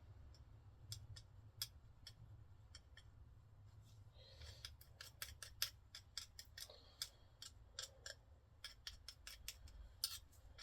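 Faint, irregular sharp clicks and taps of small metal parts and tools being handled, at first sparse and then several a second from about four seconds in, with a little light rubbing.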